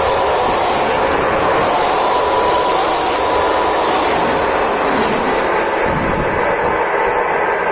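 Renfe double-deck electric multiple unit running past along the platform: a steady loud rush of wheel and running noise with a faint high electric whine.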